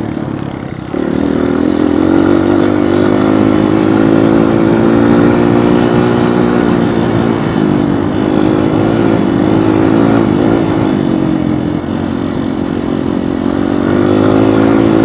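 Dirt bike engine running under way, close to the microphone, with the throttle opening up about a second in, easing off around twelve seconds and picking up again near the end.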